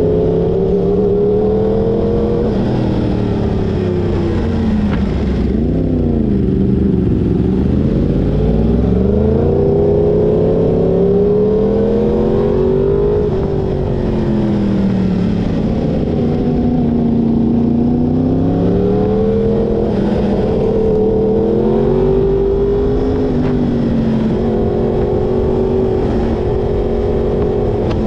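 Yamaha crossplane-crank inline-four sportbike engine running hard on a twisty road. The pitch repeatedly drops as the throttle is rolled off, then climbs again under acceleration.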